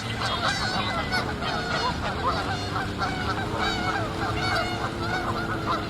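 A group of Canada geese honking loudly and without pause, many calls overlapping, as the geese fight and chase each other.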